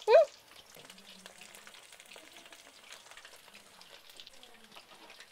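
Breaded chicken nuggets deep-frying in hot oil in a pan: a faint, steady crackling sizzle.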